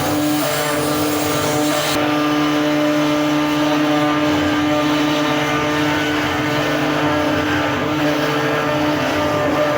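CNC router spindle running steadily as it carves a wooden door panel, a constant machine whine over the noise of the cut. The high hiss drops about two seconds in.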